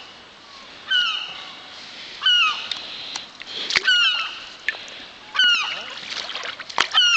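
Gulls calling: short, harsh squawks that slide down in pitch, repeated every second or so and sometimes in quick runs of two or three, with a couple of sharp clicks among them.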